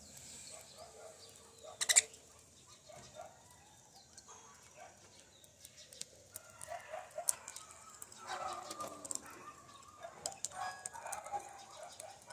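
Small pet parrots chirping and chattering in short scattered calls, busier in the second half. There is one loud sharp click about two seconds in.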